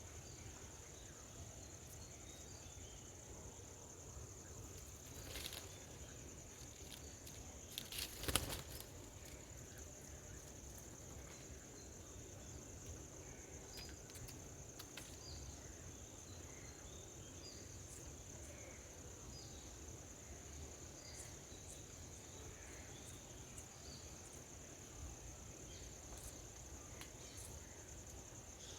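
Steady high-pitched insect drone of crickets or cicadas, with faint scattered bird chirps. Sharp knocks come about five and a half seconds in and again as a louder cluster about eight seconds in.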